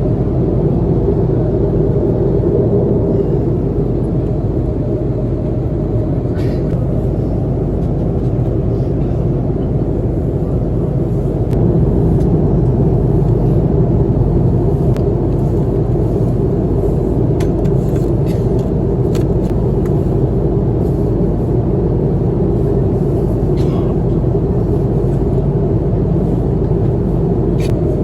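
Steady low rumble of an Airbus A330-300's engines and airflow heard inside the cabin, getting a little louder about 11 seconds in, with a few faint clicks.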